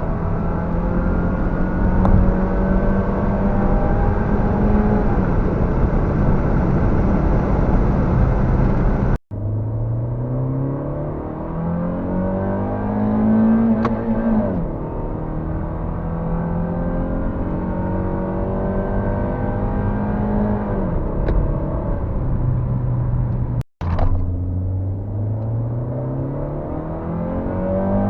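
1999 Honda Civic 1.6 iES inline-four engine under hard acceleration, its pitch climbing through each gear and dropping at each upshift. The sound cuts out abruptly twice for an instant.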